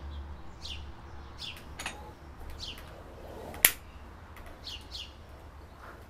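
Small songbird giving short, high, downward-sweeping chirps, repeated roughly once a second, over a low steady hum. A sharp click comes about halfway through.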